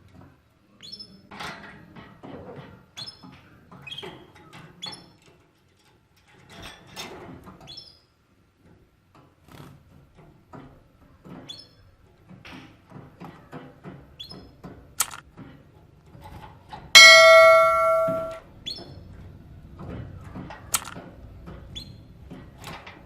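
Canaries giving short, high chirps among light clicks and knocks, as from birds moving in a cage. About two-thirds of the way through, a loud bell-like tone rings for over a second and fades.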